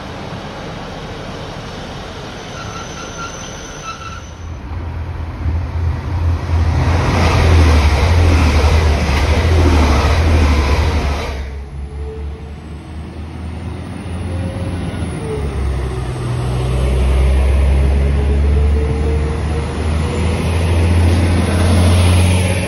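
Diesel multiple units passing at speed: a loud low drone of engines and wheels on rail swells and fades, then cuts off abruptly. A Northern Class 195 diesel unit then approaches and passes close, its drone building up near the end with a faint rising and falling whine.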